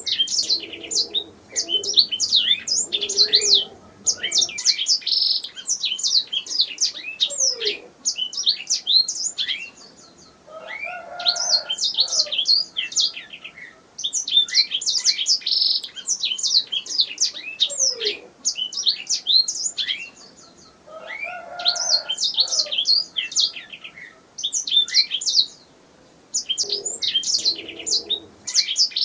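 Domestic canary singing: long phrases of rapid, high trills and chirps, each phrase broken off by a short pause every five or six seconds.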